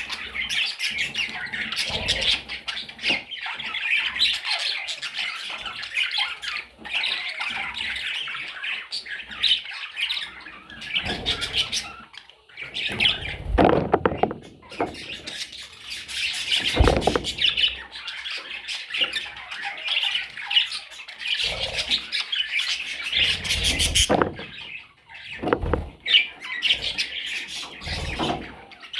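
Small parrots chattering and squawking continuously, with a few louder knocks here and there.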